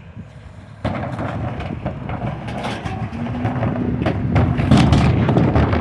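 Recycling truck running close by, starting suddenly about a second in as a loud mechanical noise with repeated knocks and clatter. A steady hum joins about three seconds in, and the sound grows louder toward the end.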